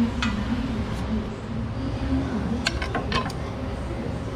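Light metallic clinks of hand tools and suspension hardware being handled, with a quick cluster of several clinks about three seconds in.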